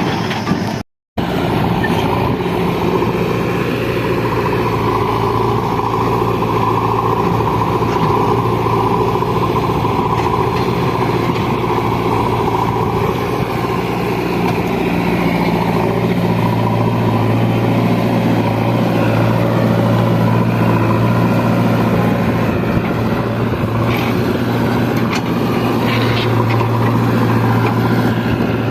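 Heavy diesel machinery engine running steadily, its low hum growing stronger about halfway through.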